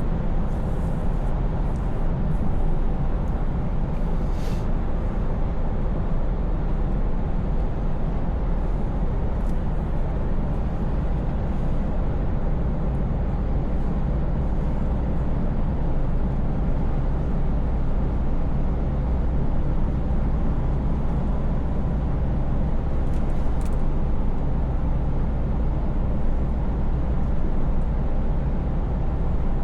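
Scania S580 truck's V8 diesel engine running steadily under way, a constant low drone mixed with road and tyre noise.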